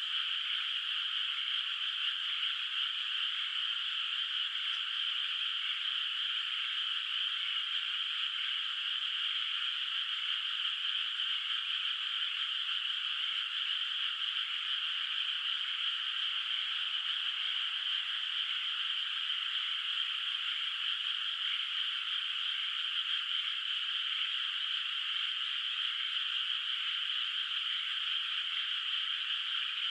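A dense chorus of many frogs calling in a flooded rice paddy, merging into a steady, unbroken trill that sits high in pitch with no deep sound beneath it.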